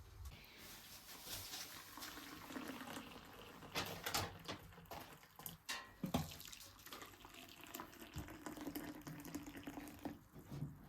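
Water running and splashing, with a few knocks about four and six seconds in.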